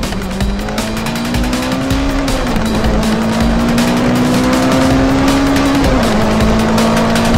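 A race-car engine sound effect, running at a steady pitch that climbs and then drops back a couple of times, over background music.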